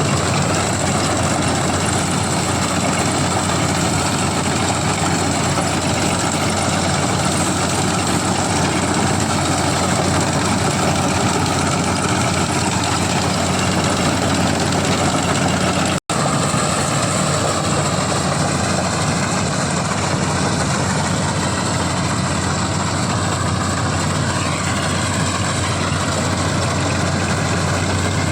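CLAAS combine harvester running steadily while cutting paddy, its engine and threshing machinery making a constant, loud drone. The sound breaks off for an instant about halfway through.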